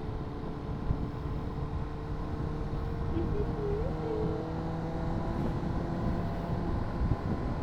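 Honda CBR600RR's inline-four engine running at a steady pace, with wind and road noise on the helmet microphone.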